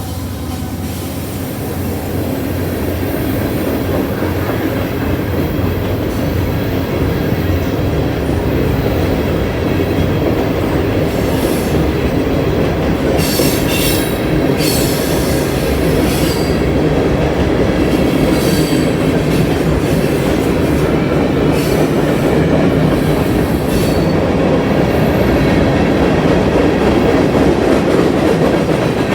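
Union Pacific mixed freight train rolling past, its wheels clacking steadily over the rails with a continuous rumble that slowly builds. A few short, high-pitched wheel squeals come about halfway through.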